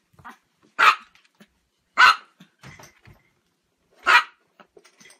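A Chihuahua barking three times, short sharp barks with the last coming after a longer pause.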